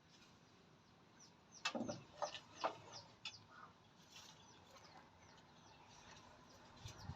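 Wild chickens (junglefowl) calling: a quick cluster of short, sharp downward-sliding calls and clucks about two seconds in, with faint scattered chirps through the rest.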